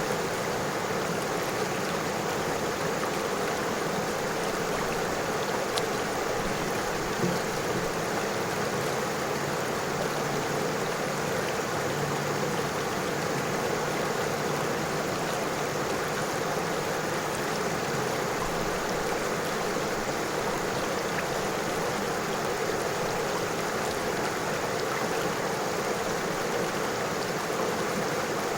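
River water flowing and rippling over stones, a steady rushing babble.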